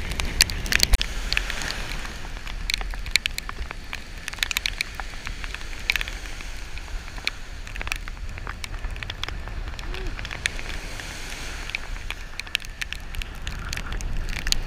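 Rain and water drops ticking irregularly on the camera housing in a steady downpour, with the low wash of breaking surf underneath.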